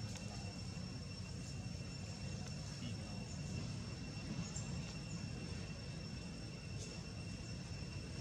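Steady outdoor background noise: a low rumble with a faint, steady high-pitched drone and a few faint clicks.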